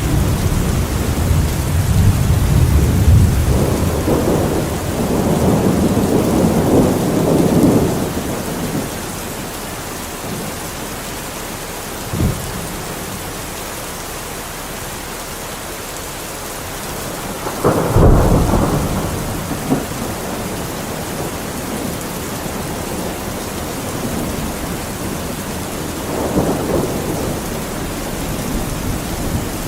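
Thunderstorm: steady rain with rolling thunder, a long low rumble through the first eight seconds or so, a sharp thunderclap a little past halfway, and a softer rumble near the end.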